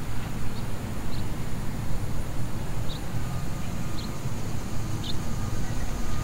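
Outdoor ambience: a steady low rumble under short, high bird chirps that come about once a second.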